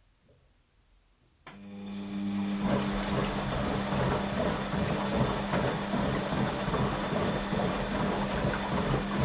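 Washing machine starting up again after a quiet pause: a motor hum cuts in suddenly about a second and a half in, and a loud, steady rushing, churning noise builds over the next second and carries on.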